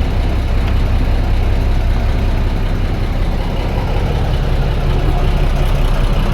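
Steady low rumble of an idling boat engine.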